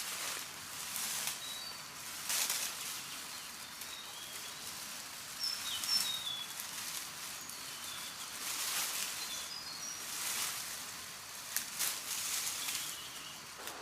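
Small birds chirping: many short, high chirps scattered throughout. Several brief bursts of rustling noise come between them.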